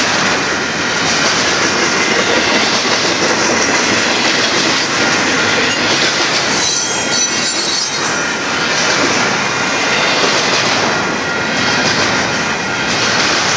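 Union Pacific double-stack container train's cars rolling past at speed: a steady, loud rattle and rumble of steel wheels on rail, with a thin high wheel squeal coming through about halfway.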